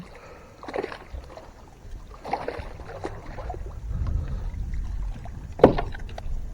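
Scattered knocks and rustles of handling aboard a small fishing boat, with one sharp loud knock about five and a half seconds in and a low rumble just before it.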